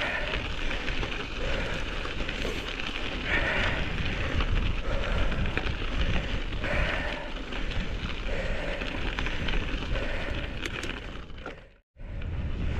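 Wind rumbling and buffeting on the microphone, over a steady crackling noise from riding a mountain bike through snow and ice. The sound cuts out suddenly for a moment near the end.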